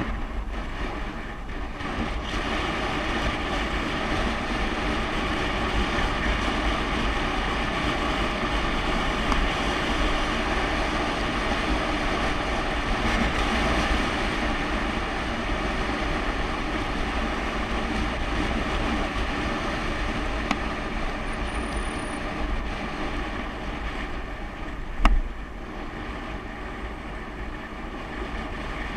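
Steady wind rushing and buffeting over the microphone during a bicycle ride, with a deep rumble underneath. A single sharp click about 25 seconds in.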